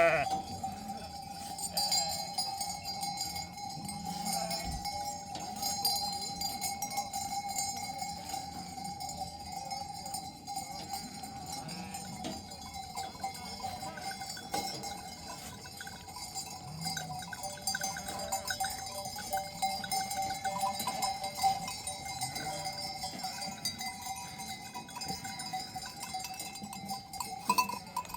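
Bells on a flock of sheep and goats ringing and clinking continuously as the animals move.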